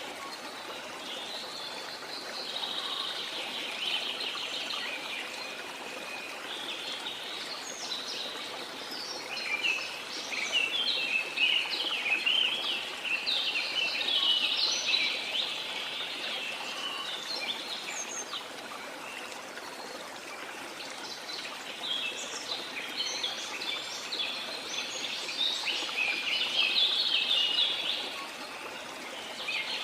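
A flock of small birds chirping and twittering busily over a steady wash of the sea; the chirping thins out for a few seconds past the middle, then picks up again.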